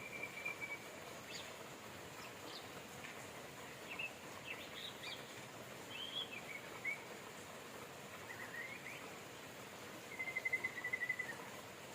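Steady rain hiss with songbirds calling over it: a level trill at the start and a louder one about ten seconds in, with short chirps and slurred whistles between.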